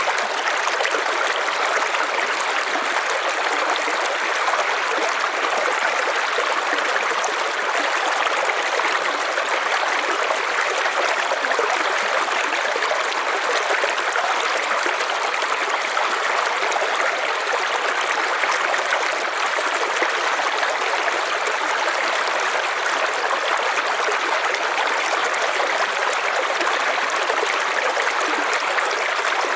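River water flowing steadily over stones, an even rushing and babbling with no breaks.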